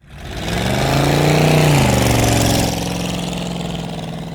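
Vehicle engine sound effect: the engine revs up, holds high for a moment, then drops back to a lower steady run that begins to fade.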